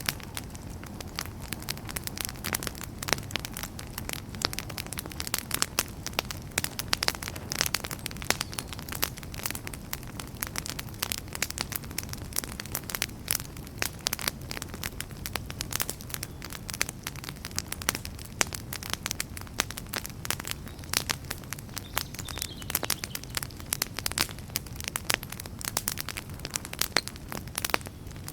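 Wood campfire burning, with many irregular sharp crackles and pops over a steady low rumble of flames.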